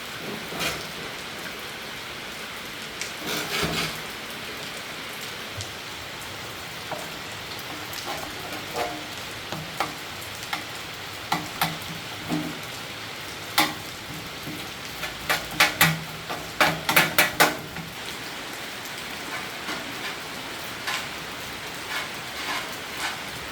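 Steady hiss of heavy rain, with scattered sharp clicks and taps over it and a quick run of clicks about two-thirds of the way through.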